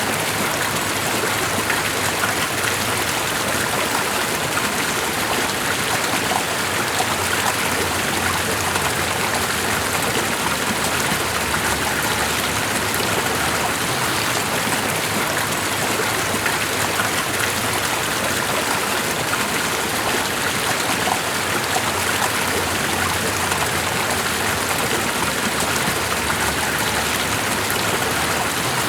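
Steady, unbroken rushing water, even and constant throughout.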